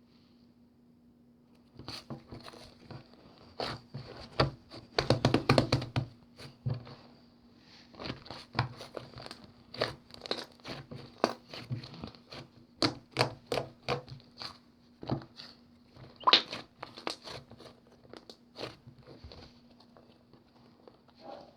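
Slime being squeezed and poked by hand, giving a string of sharp popping and clicking sounds. The pops come thickest about five seconds in and die away near the end.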